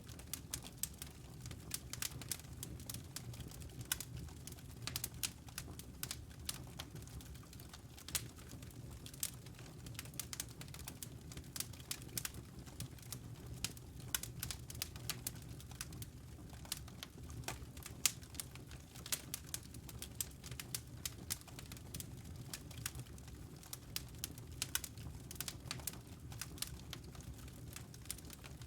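Wood fire crackling in a fireplace: irregular sharp pops and snaps, several a second, some louder than others, over a steady low rumble of burning.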